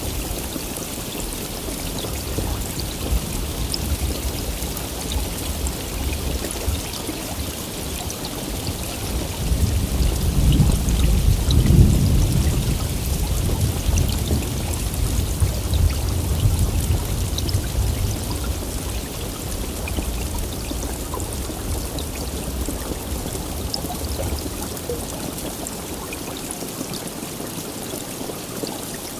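Heavy rain falling steadily. About nine seconds in, a low roll of thunder builds, is loudest a few seconds later, and fades slowly over the next fifteen seconds.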